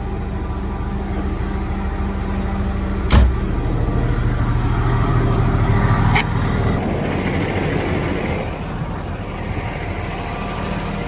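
Semi truck's diesel engine idling with a steady hum. A single sharp knock about three seconds in and a lighter click about three seconds later.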